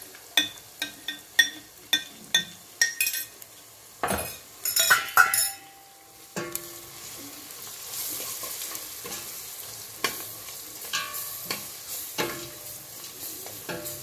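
A spoon taps quickly and sharply, with a slight ring, as ground spices are knocked off a plate into the pot, then clatters and scrapes for a moment. From about six seconds in, onions, garlic and masala sizzle steadily as they fry in oil in a stainless steel pot, with the spoon scraping as it stirs.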